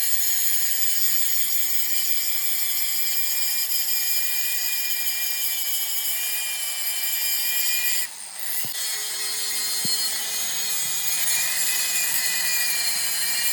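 Electric grinder working on steel: a steady, high-pitched grinding whine that breaks off briefly about eight seconds in and then resumes.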